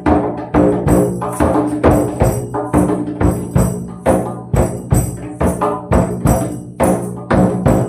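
Tambourine played in a steady rhythm of about two to three strikes a second, its jingles shimmering, over ringing pitched tones that sustain underneath.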